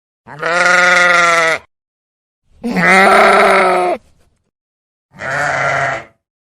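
Sheep bleating: three separate bleats, each about a second long.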